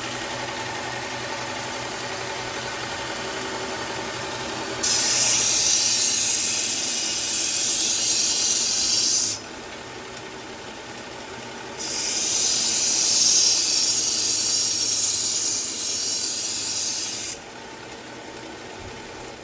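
Belt sharpener with a 120-grit belt running steadily, a kitchen knife blade ground against it in two passes, each a loud hiss of about five seconds. These first passes put the edge on the knife, raising a burr.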